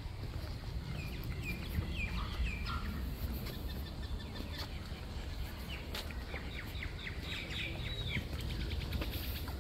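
Birds calling outdoors: a few short chirps about a second in, then a quicker run of calls past the middle, over a steady low rumble.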